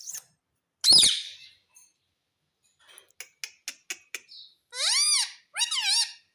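Pet ring-necked parakeet calling: one loud harsh squawk, then a quick run of short clicks and chirps, then two longer calls that rise and fall in pitch.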